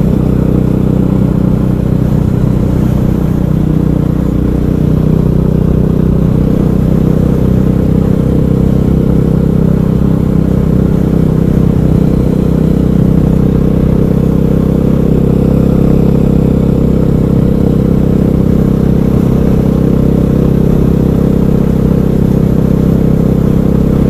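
KTM 500 EXC's single-cylinder four-stroke engine running steadily under way, its pitch holding fairly even.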